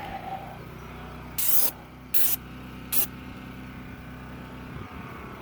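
Three short hissing spray bursts from a sprayer, about a second apart.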